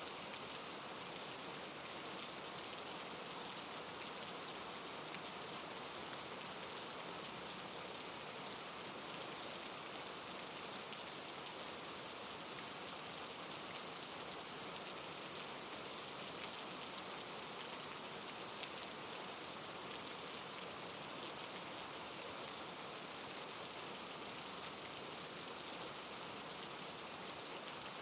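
Steady soft rain falling, an even hiss of drops on a surface with fine pattering, unchanging throughout.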